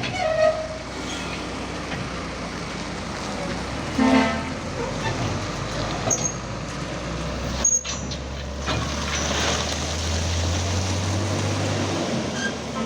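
A heavy truck's diesel engine running steadily, with a short horn toot about four seconds in. The engine rumble grows stronger, as under load, toward the end.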